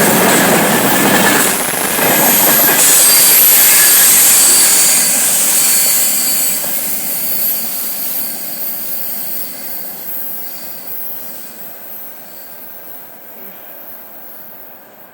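Freight train wagons rolling past on steel wheels, with thin high wheel squeal over the rumble of the cars. Loud for the first few seconds, then fading steadily as the train pulls away.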